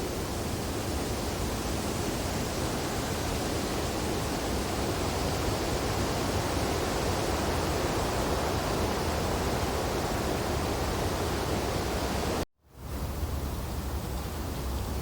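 Wind blowing through tree branches in a snowfall, a steady rushing noise. About three-quarters of the way through it cuts out for a moment and fades back in, like a seam where the recording loops.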